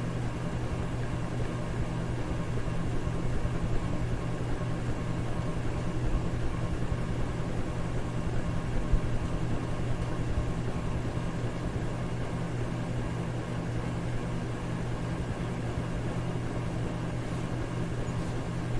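Electric fan running steadily: an even whooshing rush of air over a low motor hum, with no change in speed.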